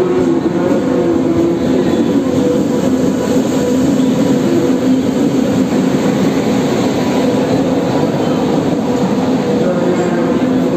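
Passenger train pulling slowly into the platform: first its electric locomotive, then its coaches roll past, making a steady noise with a low hum.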